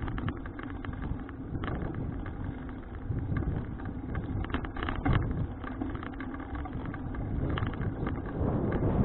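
Wind rushing over an action camera's microphone on a moving bicycle, with frequent small rattles and clicks.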